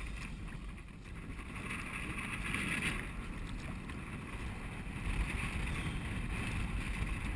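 Wind buffeting the microphone in a steady, uneven rumble over a hiss of water as a pedal kayak moves along.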